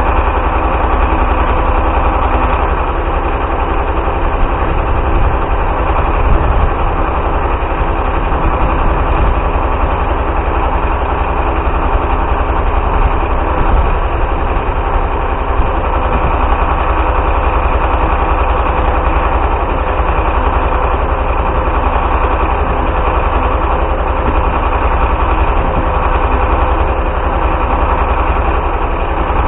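Galion 503 grader's UD-236 diesel engine idling steadily after a cold start, running evenly.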